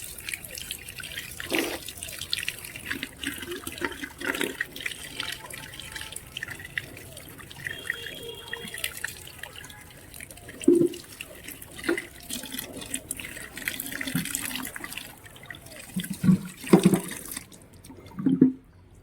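Raw fish being washed under a running tap: water running and splashing, with several knocks as the fish is handled. The running water stops shortly before the end.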